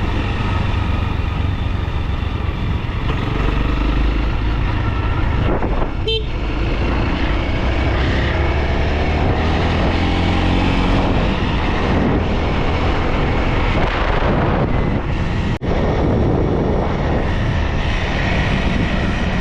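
Motorcycle engine running while riding on pavement, its pitch rising and falling as it speeds up and changes gear. A short horn toot sounds about six seconds in.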